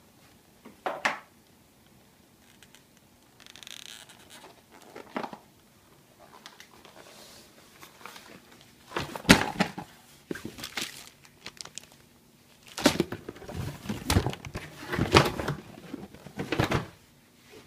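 Handling noises of a 1/10 scale RC buggy unboxing: plastic packaging crinkling and scattered clicks and knocks as parts are picked up and set down. They come in sparse single taps at first and busier clusters in the second half.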